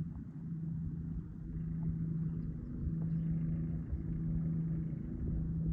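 An engine running with a steady low hum over a rumble, the hum dropping out briefly a few times.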